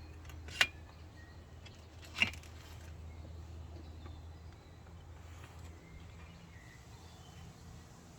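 Two short, sharp clicks or taps about a second and a half apart, over a faint steady low hum.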